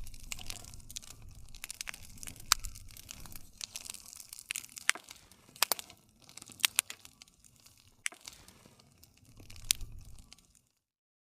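Wood campfire burning: irregular sharp crackles and pops over a low, steady rumble of the flames. It cuts to silence near the end.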